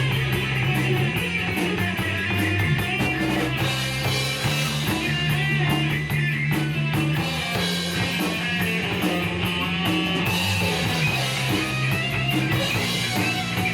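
Instrumental break in a rock song: electric guitar over bass and a drum kit with steady cymbal hits, no vocals.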